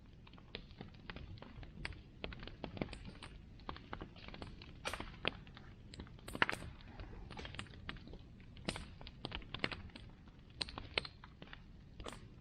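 Bonfire crackling: irregular sharp pops and snaps from the burning wood over a low steady rumble, a few louder snaps among them.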